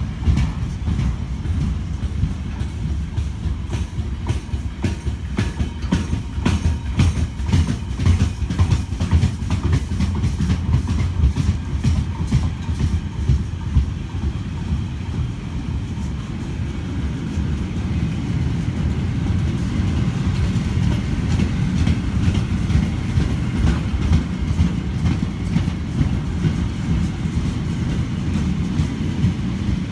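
Freight train wagons rolling past at close range: a steady low rumble, with repeated clacks of the wheels over rail joints that come thickest in the first half.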